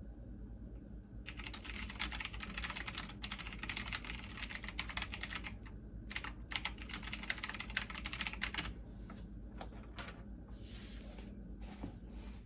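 Computer keyboard typing in fast, dense runs of key clicks from about a second in, with a short pause midway, stopping near the three-quarter mark and followed by a few scattered clicks and a soft rustle. A steady low hum runs underneath.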